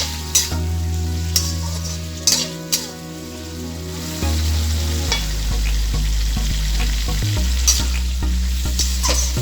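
Chicken pieces sizzling as they fry with garlic and onion in a pan, stirred with a spatula that clacks against the pan a handful of times.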